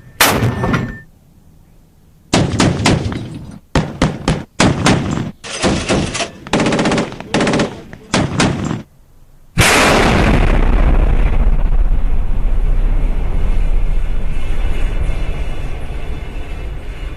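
Gunfire sound effects: a single shot, then a string of short bursts of automatic fire with brief gaps between them. About halfway through, a sudden loud blast opens into a long, deep rumble that fades slowly.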